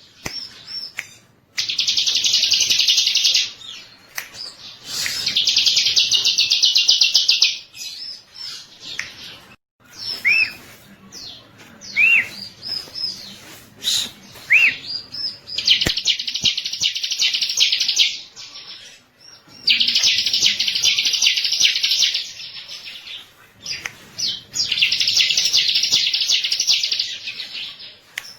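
Bar-winged prinia (ciblek) singing: five long, very rapid trills of about two to three seconds each, separated by short upward-curving chirps.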